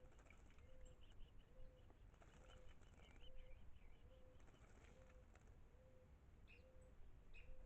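Faint bird sounds: a short low note repeated at a steady pace, about one and a half times a second, with scattered higher chirps and twitters over it.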